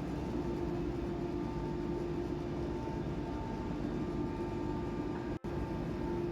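Steady machinery drone of plant equipment, a dense even rumble with a held hum, broken by a split-second dropout about five seconds in.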